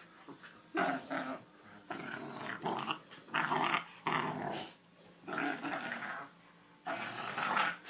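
Pit bull puppies growling at each other as they fight, in a string of several short bursts with brief pauses between them.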